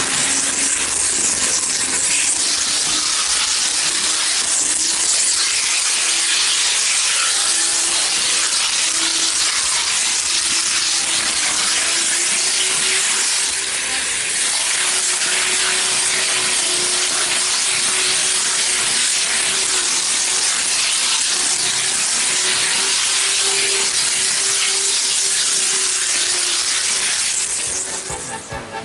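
N-gauge model Shinkansen train running at full speed, heard from a camera riding on the train: a steady rushing hiss of wheels on the rails with a faint motor whine that rises a little in pitch over the first dozen seconds, then holds.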